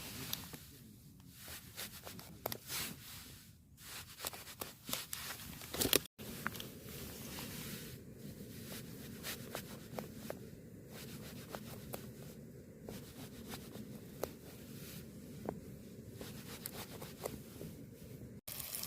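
Quiet handling of camp cooking gear: rubbing, rustling and small clicks. After a cut about six seconds in, a faint steady hiss with scattered crackles follows.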